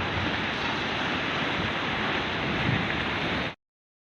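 Steady sea surf washing on the shore, with wind on the microphone, cutting off abruptly to silence about three and a half seconds in.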